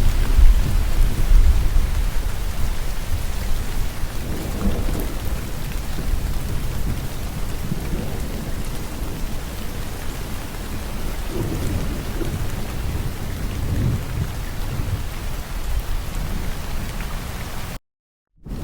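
Steady heavy rain with deep, rolling thunder rumbling underneath, swelling several times. The sound drops out completely for about half a second near the end.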